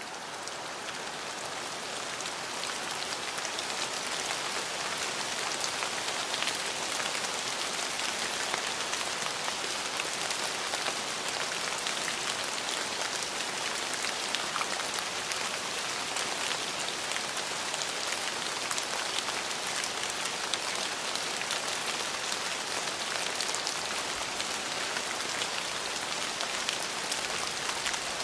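Steady, dense rainfall with many fine drop ticks, fading in over the first few seconds and then holding even.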